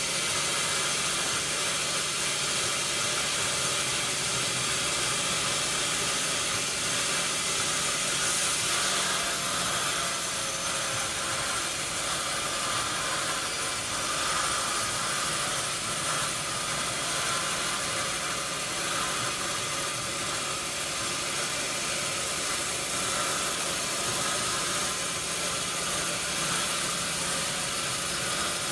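Sawmill machinery running steadily: a continuous, even hiss and hum with no change in level.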